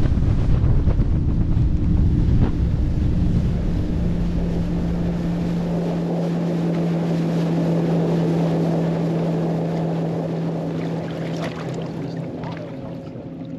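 Boat outboard motor running on open water with wind buffeting the microphone. The wind rumble is heavy for the first few seconds, then a steady engine hum comes through and fades toward the end.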